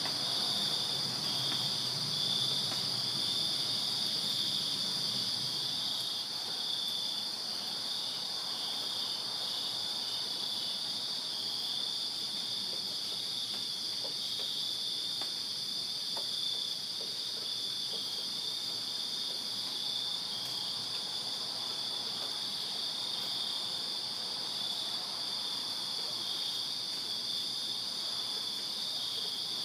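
A chorus of crickets chirping on a summer night: a steady, high, shrill trill made of several insects at slightly different pitches, one of them pulsing rapidly. A faint low rumble runs underneath for the first few seconds.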